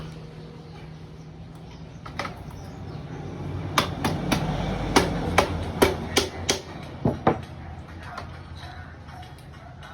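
A run of about ten sharp, irregularly spaced knocks, like hammering or tapping on metal parts, bunched in the middle, over a low steady hum.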